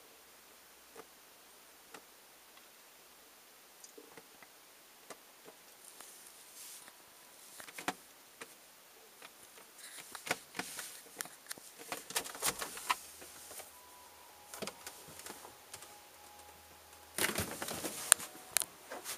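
Faint scattered clicks and rustles of a person shifting about inside a closed refrigerator. They are sparse at first and busier from about ten seconds in, with a louder burst of rustling near the end.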